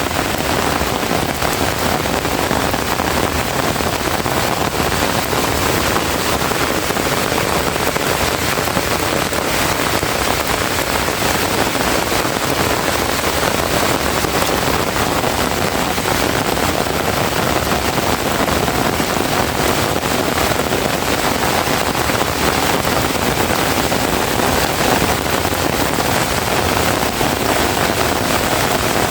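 Heavy rain pouring down steadily: a dense, even hiss of drops on surfaces.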